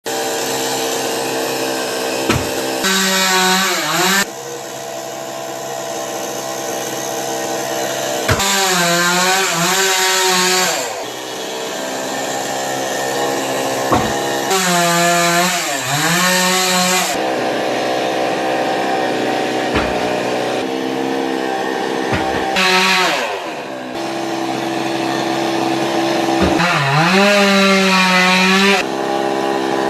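Chainsaw running continuously while cutting a coconut palm trunk. Its engine pitch dips and climbs back several times as the chain loads up in the cut and then frees.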